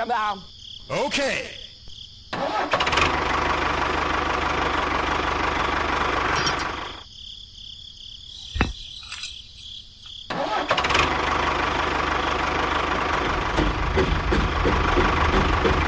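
A small motor running steadily, cutting off for about three seconds midway with a single click, then starting up again.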